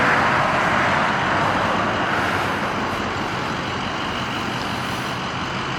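Vermeer VXT300 vacuum truck running: a steady rushing noise over a low engine hum, loudest at the start and easing off slightly.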